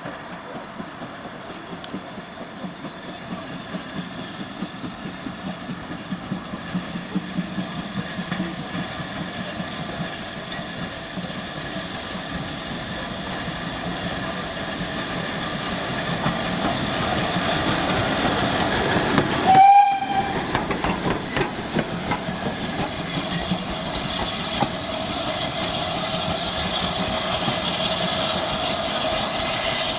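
Heritage steam train running, its wheels clicking over the rail joints in a steady rhythm that slowly grows louder as it gathers speed. A short, loud whistle blast sounds about twenty seconds in.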